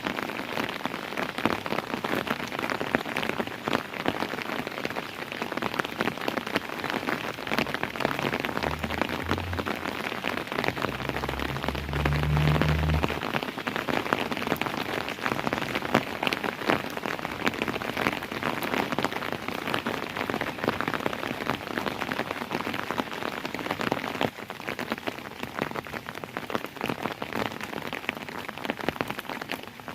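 Steady rain falling, a dense hiss full of separate drop ticks. A low rumble rises under it about nine seconds in and fades out around thirteen seconds.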